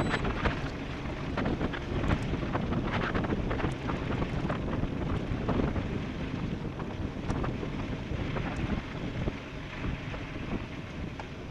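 Wind buffeting the microphone during a fast off-road e-bike descent, with scattered clicks and knocks throughout.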